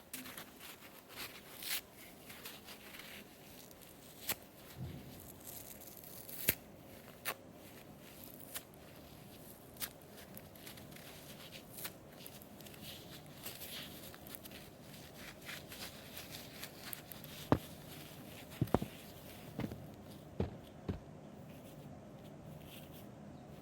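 A sponge being torn and handled: scattered soft tearing and crackling with short clicks, and a few louder sharp snaps in the latter part.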